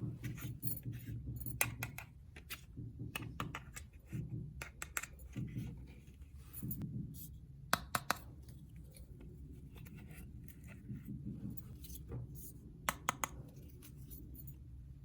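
Small plastic toy pieces being handled, with irregular sharp clicks and taps over a low steady hum.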